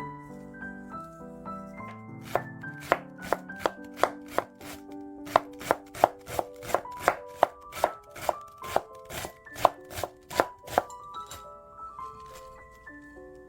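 Knife chopping on a cutting board: a run of quick, sharp strokes, two or three a second, that starts a couple of seconds in and stops near the end, over light piano background music.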